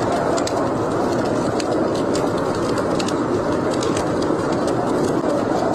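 Steady roar of blizzard wind, with the irregular sharp crackles and pops of a burning log fire in a fireplace.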